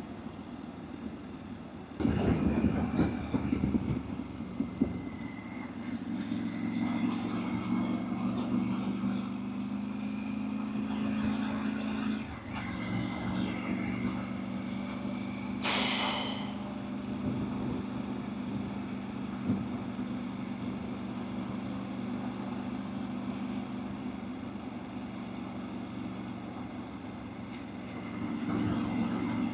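Motorcycle engine running steadily under way, with wind rushing over the microphone, loudest a couple of seconds in. The engine note shifts about twelve seconds in, and there is a brief high hiss near the middle.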